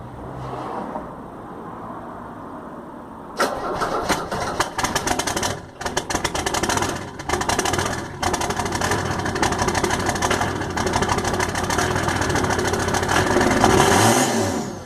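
Mercedes-Benz OM617 five-cylinder diesel with a 3-inch straight pipe catching about three seconds in on a cold start, running rough and stumbling at first, then settling into a steady, loud run that swells briefly near the end. Its injection timing is set over-advanced.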